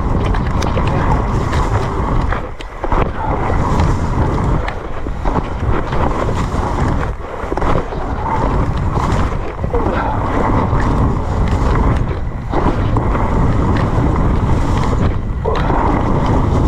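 Wind and rain buffeting the microphone of a camera on a mountain bike riding down a wet trail, with scattered knocks and rattles from the bike.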